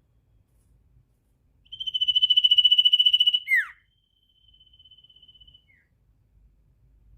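A sirtu songbird trilling: a loud, rapid, buzzing high trill lasting about a second and a half, ending in a short downward-sliding whistle, then a second, fainter trill at the same pitch.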